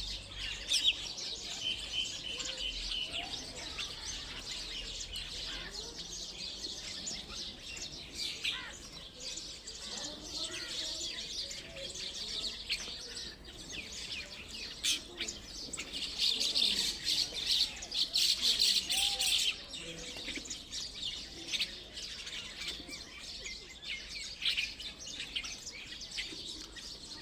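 Parrot chirping and chattering in rapid high chirps throughout, busiest and loudest for a few seconds about two-thirds of the way in.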